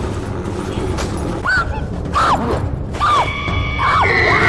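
Horror-film soundtrack during a struggle: a low, rumbling score with a held high tone coming in about three seconds in. Over it come five short cries, each rising and falling in pitch, about a second apart.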